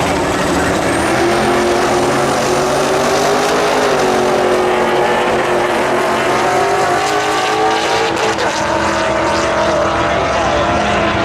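Twin-turbo big-block V8 pickup making a full-throttle drag-strip pass, the engine loud and steady at high revs, its pitch dipping slightly and then climbing.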